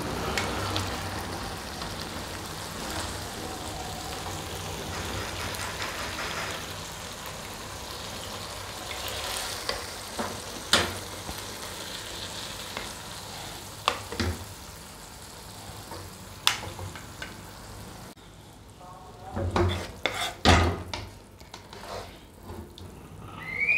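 Masala fish gravy sizzling in a non-stick wok, with the clicks and scrapes of flat plastic spoons against the pan as the fish is served out. The sizzle drops lower about three-quarters of the way through, leaving a few separate knocks.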